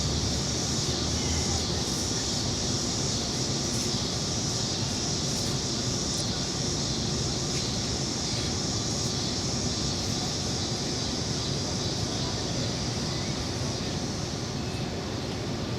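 Steady, even noise: a bright hiss over a low rumble, holding the same level throughout.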